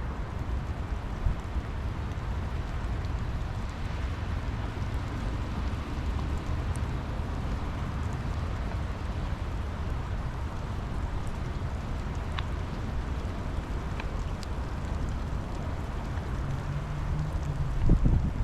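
Steady rain falling, with a constant low rumble underneath and scattered sharp drop ticks. Near the end a low steady hum comes in and the rumble swells.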